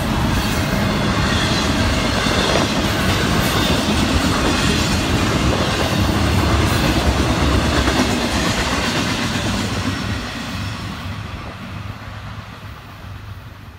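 Double-stack intermodal freight cars rolling past: the steady rumble and clatter of steel wheels on rail. The sound fades from about ten seconds in as the end of the train passes and draws away.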